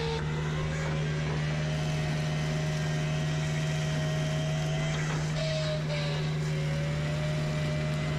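Compact tracked forestry mulcher running steadily, a constant deep engine hum with a fainter whine above it that shifts slightly in pitch and breaks off briefly about five seconds in and again a little later.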